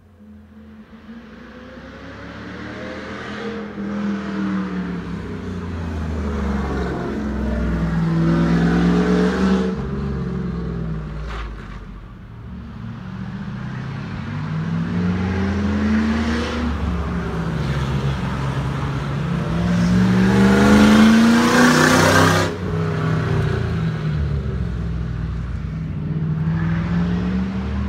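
V8-engined Volvo accelerating hard up a winding mountain road. The engine pulls up in pitch several times, dropping back between gear changes, and grows louder as the car approaches. It is loudest about 21 seconds in and cuts back sharply just after.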